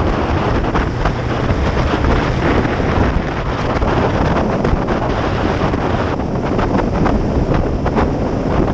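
Heavy wind buffeting on the microphone of a motorcycle at riding speed, steady throughout. Under it runs the low drone of the Kawasaki Ninja 500's parallel-twin engine.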